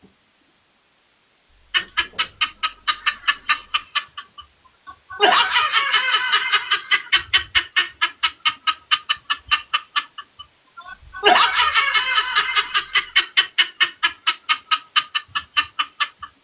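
Rapid, evenly paced cackling, about five or six pulses a second, in three bursts: a short one a couple of seconds in, then two long runs of several seconds each with a brief pause between.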